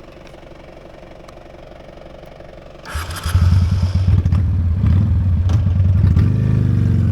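Honda Steed V-twin motorcycle engine, low and steady at first, then loud all at once about three seconds in as the rider pulls away. Its pitch rises near the end as it accelerates.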